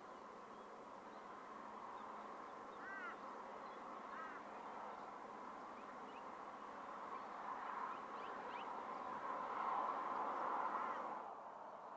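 A few short bird calls over a faint, steady outdoor rushing noise. The noise swells toward the end and then drops off abruptly.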